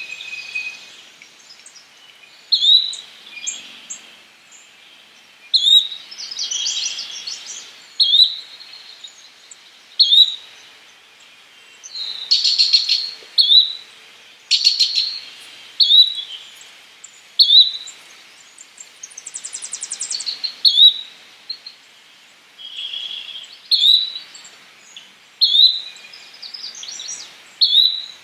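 Yellow-bellied flycatcher calling: a short, high note repeated every couple of seconds. Other birds trill and chatter in the background.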